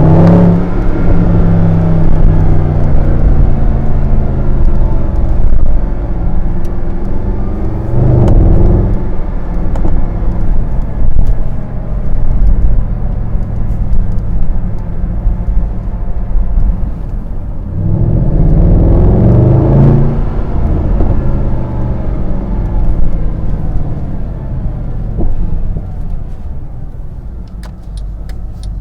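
Mercedes-AMG SLS 63's 6.2-litre V8 running loud under throttle. Its revs climb in rising pulls about eight seconds in and again around eighteen to twenty seconds, with steadier running between.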